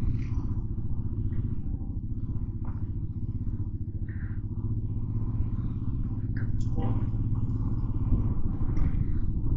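Motorcycle engine running steadily while the bike is ridden, a low continuous rumble.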